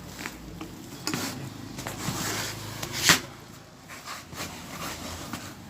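Irregular knocks and clinks of hand tools during tyre puncture repair, with one loud sharp hit about three seconds in.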